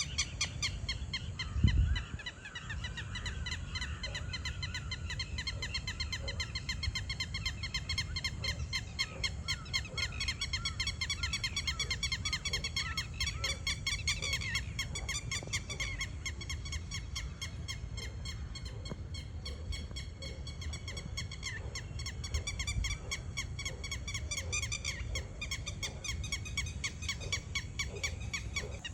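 Small birds chirping in a rapid, continuous chorus of short repeated notes over a low background rumble, with one dull thump about two seconds in.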